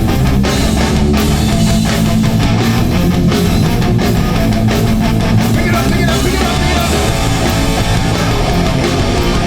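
Live hardcore punk band playing loud and steady: distorted electric guitars, bass and drums.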